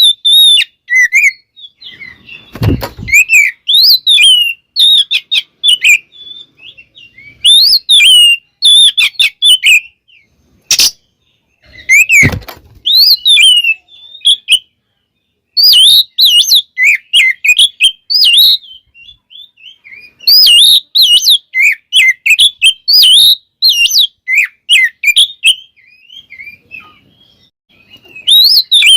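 Oriental magpie-robin (kacer) singing in rapid bursts of varied whistled and chattering phrases, with short pauses between bursts. Two dull thumps are heard, one a couple of seconds in and one about halfway, and there is a sharp click just before the second thump.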